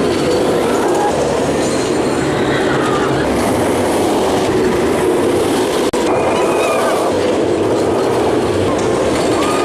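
Roller coaster ride noise from the Wonder Woman single-rail coaster: the train runs along the track with a steady loud rush of wind and track rumble. Riders' voices rise and fall over it at times.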